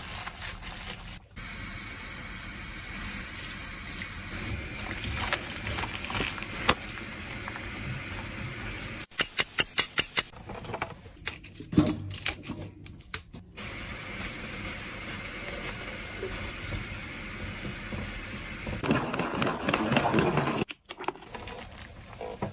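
Kitchen food-preparation sounds in several short cuts: steady handling noise, a quick run of about eight knocks a little before halfway, and a louder stretch of noise near the end.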